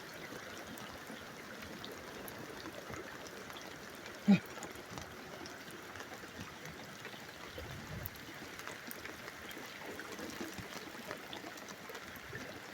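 Steady rain with water trickling and dripping, and one short sharp knock about four seconds in.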